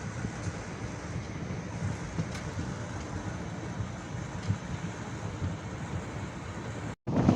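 Steady low rumble of a moving passenger train, with a few faint clicks. Near the end it cuts out abruptly and gives way to a louder rushing, wind-like noise.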